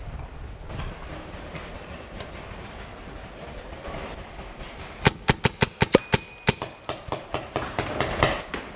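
Paintball markers firing. About five seconds in, a quick string of sharp shots comes at roughly six a second, followed by looser, scattered pops.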